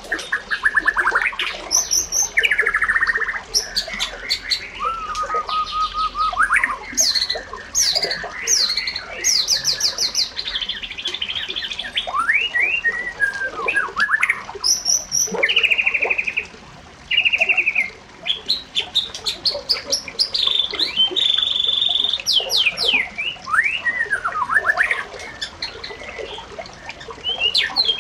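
Several birds chirping and calling over one another: rapid trills, quick rising and falling whistles and short squawks, without pause.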